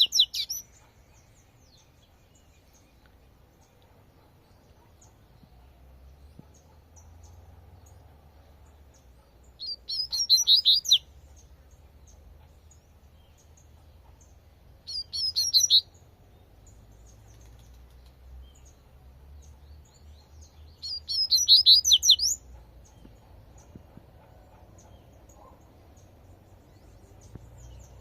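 Double-collared seedeater (coleirinho) singing its 'tui-tui' song type: three short phrases of quick, rapidly rising and falling whistled notes, each about a second long and several seconds apart, with the end of another phrase right at the start. A faint low rumble lies underneath.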